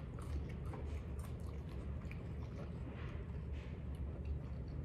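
People chewing crunchy puffed rice cake chips, with scattered faint crunches over a steady low hum.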